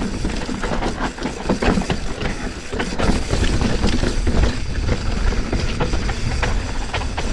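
Mountain bike riding down a rough dirt trail: a continuous rumble of tyres and wind on the helmet microphone, with the rattle and clatter of the bike over rocks and bumps.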